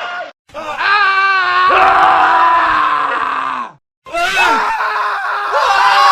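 Men screaming, one scream after another with abrupt cuts between them: the end of one, a long scream that wavers and drops in pitch as it ends, then a new one starting about four seconds in.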